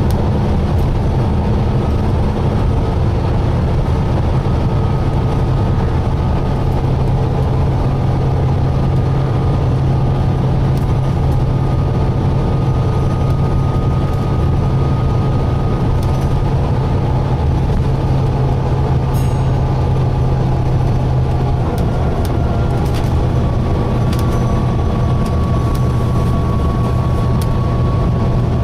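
Volvo B9TL double-decker bus's six-cylinder diesel engine running steadily under way, heard inside the saloon, with a thin steady whine over the drone. The engine note dips slightly about three quarters of the way through, and a few faint rattles or clicks come near the end.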